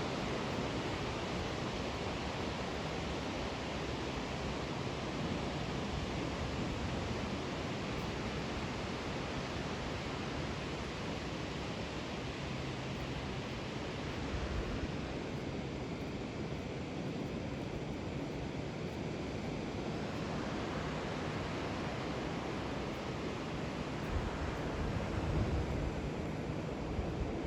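Steady rushing noise of the Bono tidal bore, its waves breaking and surging across the flat.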